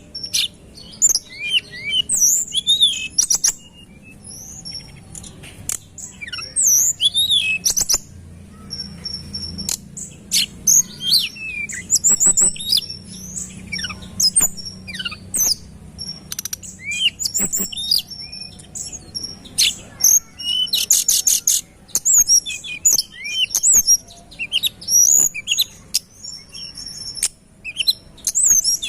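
A tledekan gunung songbird singing a rapid, dense run of high chirps, short whistles and trills with only brief pauses, including quick stuttering bursts of notes.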